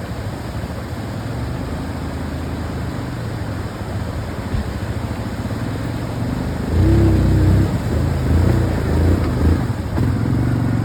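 ATV engine running under way with a steady drone, then revving harder and louder about two-thirds of the way through.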